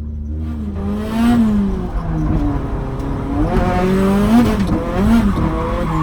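Drift car's engine setting off from idle, then revving up and down repeatedly as it accelerates hard, the pitch rising and dropping several times.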